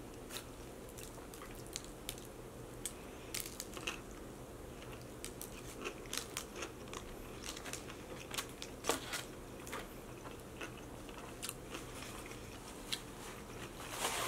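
Close-miked chewing of a mouthful of hot dog with its toppings: soft, wet mouth clicks and small crunches at irregular intervals, with no talk.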